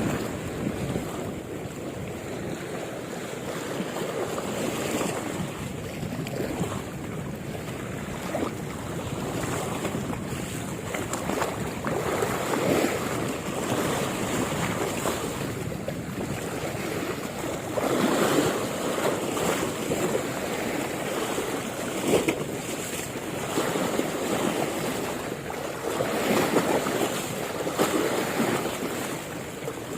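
Waves washing and water sloshing in slow, uneven swells, with wind buffeting the microphone.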